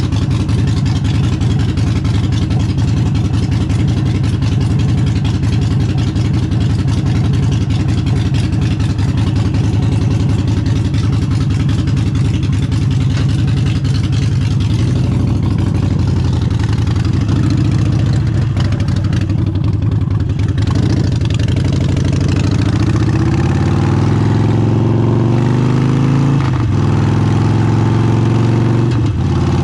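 Harley-Davidson Forty-Eight's 1200 cc air-cooled V-twin with an aftermarket exhaust, running under way: steady for the first half, then pulling up through the revs with rising pitch and brief drops at gear changes near the end. Wind rushes on the microphone, which has a poorly fitted foam cover.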